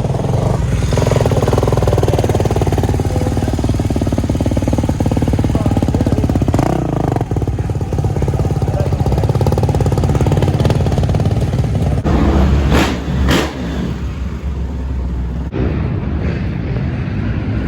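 Dirt bike engine running and revving as it is ridden, its pitch rising and falling with the throttle, with abrupt jumps where separate riding clips are cut together.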